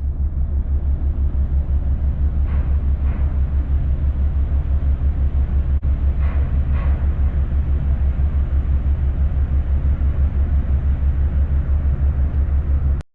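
A ship's engine throbbing steadily, a low pulse of about seven beats a second, with a few faint brief sounds over it.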